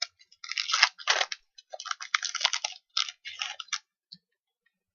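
Crinkling and tearing of a trading card pack's foil wrapper as it is ripped open, a run of crackles that stops a little before the end.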